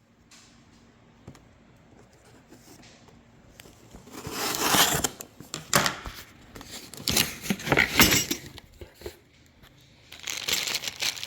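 Packaging being torn open and crumpled: a run of loud rustling, tearing bursts with sharp clicks, starting about four seconds in after a quiet stretch.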